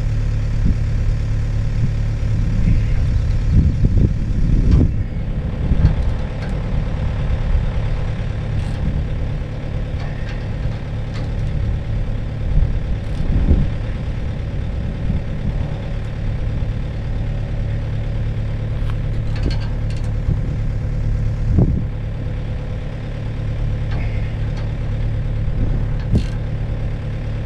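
Komatsu mini excavator's diesel engine idling steadily, with a few short knocks of work on the pole's cable hardware.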